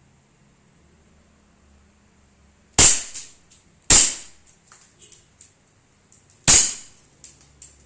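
KWC M1911 airsoft pistol firing three shots, the first two about a second apart and the third some two and a half seconds later, each followed by a few faint clicks.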